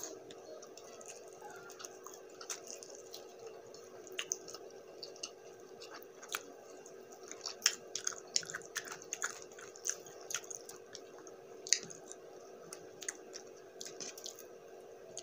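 Close-miked mouth chewing of buffalo wings and rice, with irregular wet clicks and smacks, over a steady low hum.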